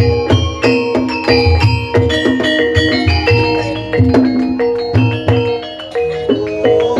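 Gamelan music for an ebeg dance: struck mallet instruments ringing out melodic notes over the low strokes of a hand drum, in a steady rhythm.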